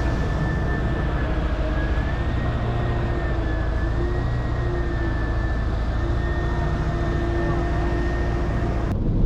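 Rollback tow truck driving, heard from inside the cab: a steady engine and road drone with a faint, even whine running through it.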